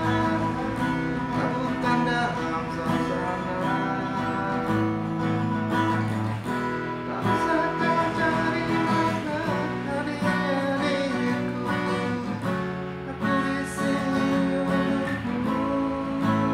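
A man singing a song to strummed acoustic guitar.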